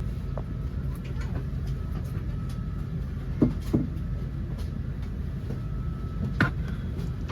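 Steady low rumble of airliner cabin noise, with a few short clicks and knocks, the loudest about three and a half seconds in and again past six seconds.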